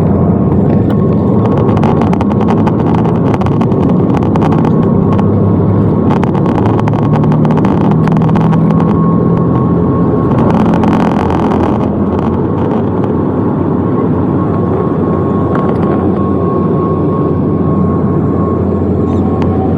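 Aircraft engines running at takeoff power: a loud, steady rumble with a thin, steady whine over it.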